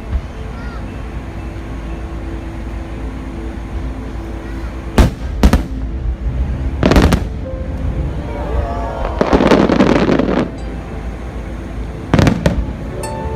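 Aerial firework shells bursting with sharp booms, four or five in all, and a dense crackle of crackling stars for about a second and a half past the middle.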